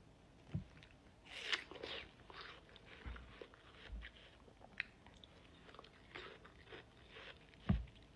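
Close-miked mouth sounds of someone eating fresh fruit: a crisp bite about a second and a half in, then scattered crunching and wet chewing. A couple of low thumps come through, the louder one near the end.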